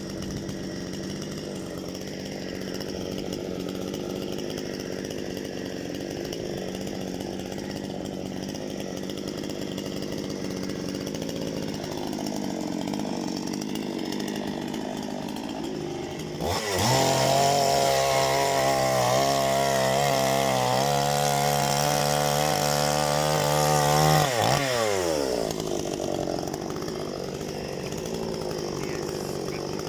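Petrol chainsaw running at idle, then revved to high speed about two-thirds of the way in and held there for about seven seconds. Its pitch then falls away as it drops back to idle.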